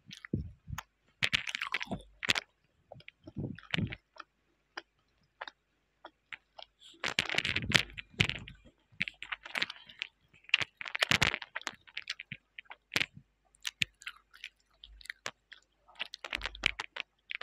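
Close-up chewing of a mozzarella-filled sausage, picked up by an earphone microphone held at the mouth: irregular wet smacks, clicks and crunchy bites.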